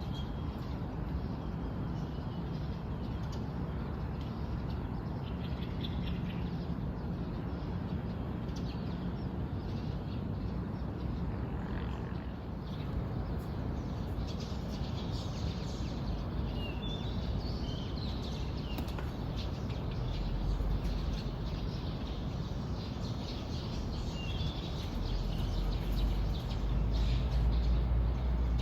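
Birds chirping in short, scattered high calls over a steady outdoor hiss. A low rumble builds in near the end.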